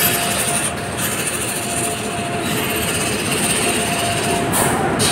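Electric locomotive and LHB passenger coaches of an Indian Railways express running past, a steady loud rush of wheels on rails with a thin whine that comes and goes.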